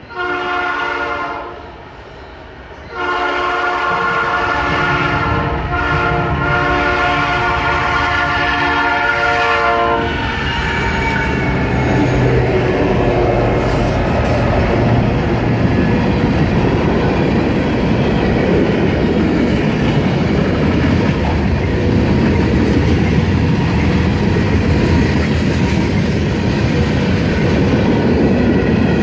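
Diesel freight locomotive horn blowing for a grade crossing: a blast of about two seconds, a short break, then a long blast of about seven seconds. Then the Norfolk Southern locomotives rumble past close by, followed by the freight cars rolling over the rails with a steady clickety-clack.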